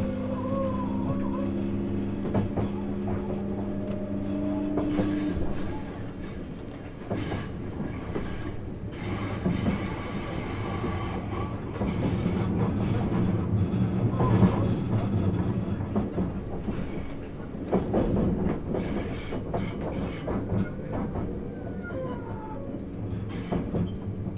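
Inside a JR East 651 series electric train under way, wheels rumble on the rails with short clicks at the rail joints. A set of steady motor tones fades out about five seconds in.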